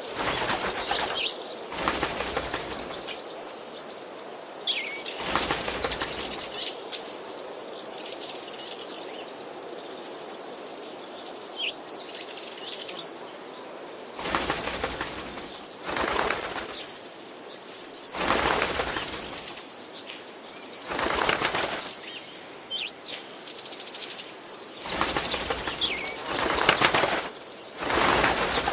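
Birds fluttering their wings in repeated bursts of about a second each, with short high chirps in between.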